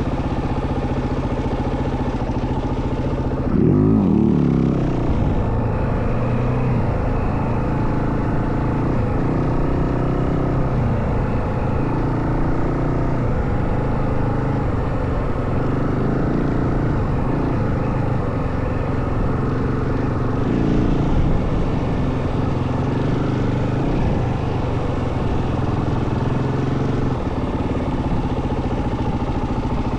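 Yamaha WR450F dirt bike's single-cylinder four-stroke engine running steadily under way, with a quick rev up and back down about four seconds in and a smaller surge around twenty seconds in.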